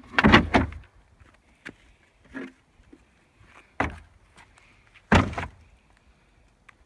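Cut pieces of composite decking knocking and clattering as they are stacked into a garbage can: a loud clatter of several knocks at the start, a fainter one about two seconds in, a sharp knock near the middle and another loud thud about five seconds in.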